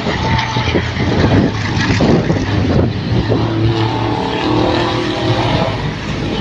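Race trucks' engines running hard during the race, a continuous engine drone whose pitch shifts and then holds steadier through the middle.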